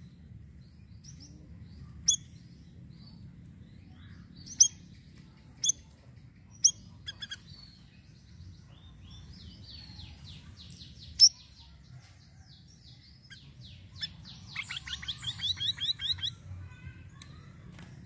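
Siri-siri bird singing: loud, sharp single chips every second or so, a soft warble, then near the end a fast rippling run of repeated rising notes.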